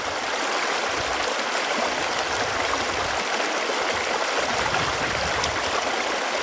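Running water flowing steadily, an even rushing with no breaks or changes.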